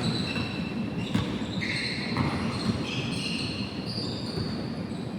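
Basketball game sounds in a large hall: the ball bouncing on the court and sneakers squeaking in short high chirps, over a steady background murmur.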